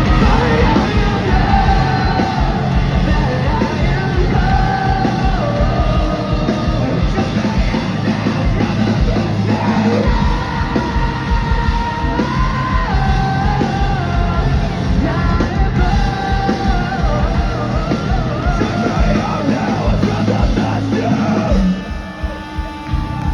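Post-hardcore rock band playing live at full volume, with sung and yelled vocals over the band. The sound drops in level shortly before the end.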